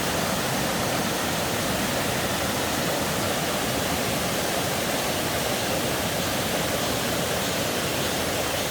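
Mountain valley stream rushing steadily over rocks, a constant full hiss of water with no breaks.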